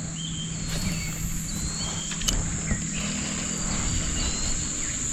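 Riverside ambience: a steady high-pitched insect buzz with a few short chirps over it.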